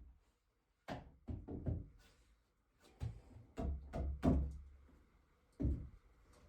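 A series of irregular wooden knocks and thuds, about nine in clusters, the loudest a little past four seconds in: boards being handled and fitted in carpentry work.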